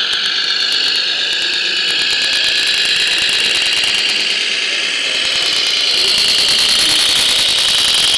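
Whine of a radio-controlled scale model's electric motor and gearing, slowly rising and falling in pitch, with fast clicking over it.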